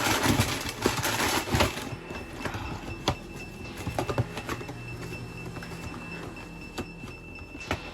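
Dry cereal pouring from its crinkly plastic bag into a bowl, a dense rattling rustle for about two seconds, followed by scattered light clicks and taps as the pouring stops and the bag is handled.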